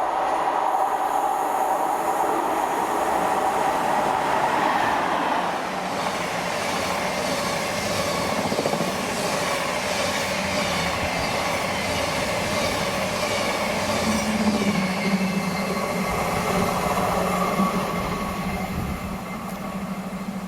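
Train moving along the rails: a steady running noise with whining pitched tones that shift, and a low steady hum that sets in about three quarters of the way through.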